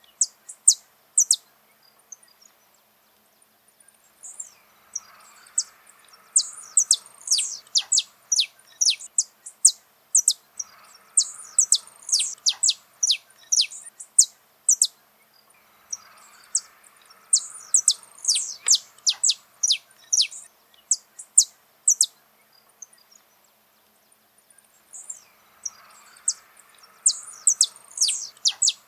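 Saffron finch (canário-da-terra) singing: repeated bursts of quick, sharp, high notes, each falling in pitch, every burst lasting a few seconds with short pauses between.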